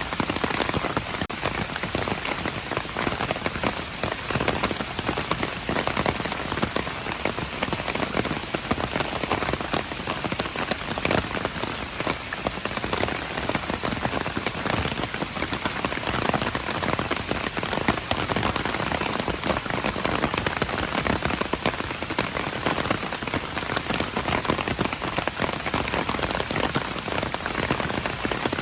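Steady rain falling on hard surfaces: a dense, even patter of many drops that never lets up.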